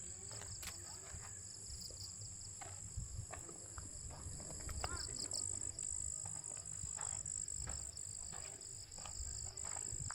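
A steady high-pitched chorus of insects at dusk, with a few scattered footfalls on the path.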